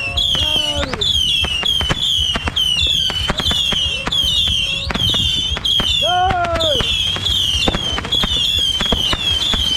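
New Year fireworks and firecrackers going off: a dense, continuous run of bangs and crackles. A high chirp repeats about three times a second over the bangs, and a short pitched tone rises and falls about six seconds in.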